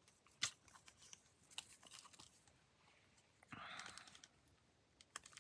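Faint handling of paper pieces: scattered small clicks and taps, with a brief rustle about three and a half seconds in.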